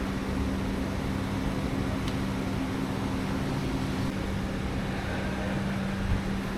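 Steady hum and whir of a motor-driven machine running at constant speed, with a second hum dropping out about four seconds in.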